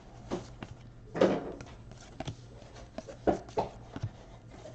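Trading cards being handled and sorted on a table: scattered soft clicks and short rustles as cards are flicked and set down, over a steady low hum.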